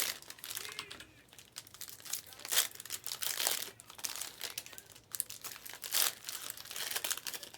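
Trading card pack wrappers crinkling and tearing as packs are opened, in irregular bursts.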